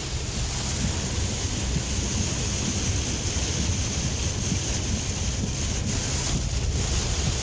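Steady road and wind noise of a vehicle driving at speed: a constant low rumble with a hiss over it.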